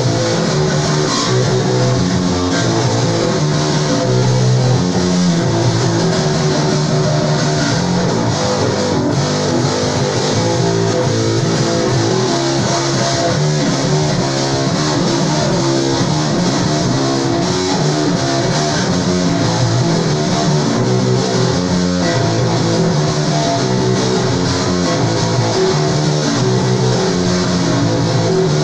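Bass guitar playing a solo: a steady run of quick plucked notes, mostly in the upper-middle range.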